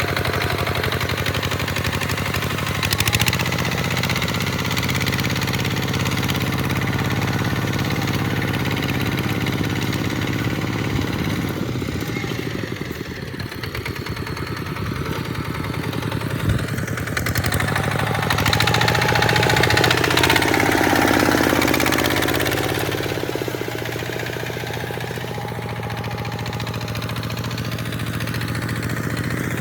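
Tractor engine running steadily while it plows sand, its speed shifting slightly a few times. It gets louder for a few seconds about two-thirds of the way through.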